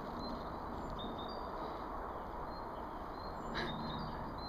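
Birds chirping, short high notes repeated every half second or so over a steady background hiss and rumble, with a brief click about three and a half seconds in.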